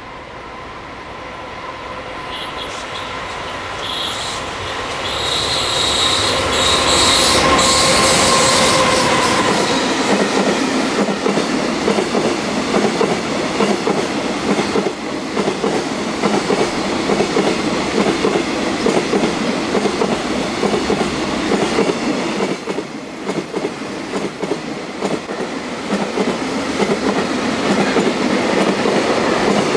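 JR Freight EF200 electric locomotive hauling a high-speed container freight train past at speed. The sound builds to its loudest about seven seconds in as the locomotive goes by, with a steady whine from it. The long string of container wagons follows, their wheels clattering on the rails, with a high-pitched squeal at times.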